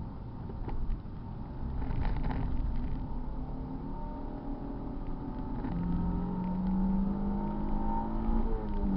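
Car engine running under load, its note rising to a steady pitch for the last few seconds, then briefly dropping near the end before picking up again.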